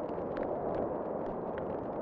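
Wood fire crackling in a fireplace: a few scattered sharp pops over a steady rushing noise.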